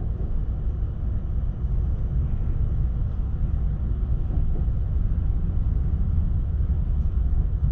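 Steady low rumble and hum inside an ÖBB Railjet passenger coach.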